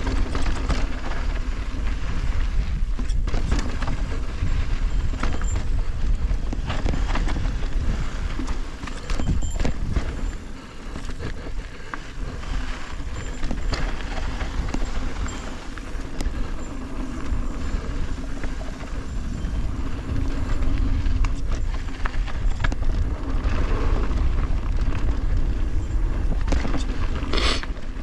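A motor vehicle running: a steady low rumble and drone with scattered knocks and rattles.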